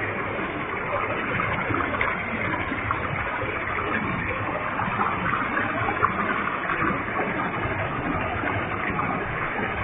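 A waterfall with a heavy flow, its falling water making a steady, unbroken rush.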